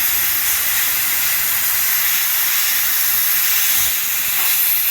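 Air hissing steadily out of a car tyre's open valve stem, its core released with a valve stem tool, as the tyre deflates.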